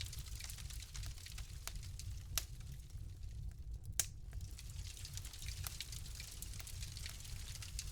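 Wood fire in a fireplace crackling: scattered small crackles over a low rumble of flame, with two louder pops about two and a half and four seconds in.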